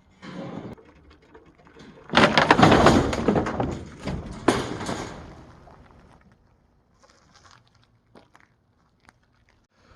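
Clattering and knocking, loudest for about three seconds beginning a couple of seconds in, with a few lighter thunks before and after.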